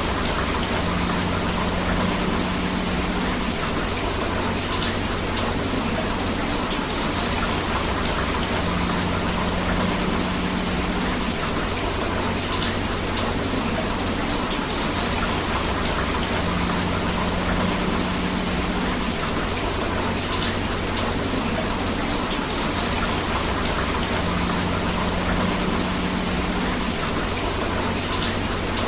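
Steady rain and river water: an even, continuous rushing hiss with no pauses. A faint low hum comes back about every eight seconds and lasts two to three seconds each time.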